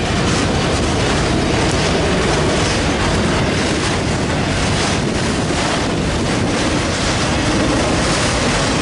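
Freight train of autorack cars rolling steadily through a grade crossing: a continuous rumble of wheels on the rails.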